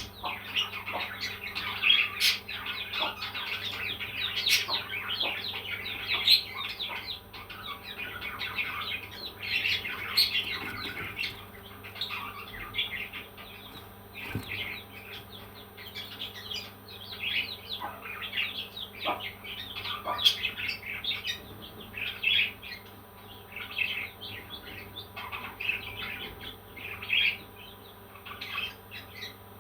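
Parrots chirping and chattering: a dense run of short, high chirps, with a few sharp clicks now and then.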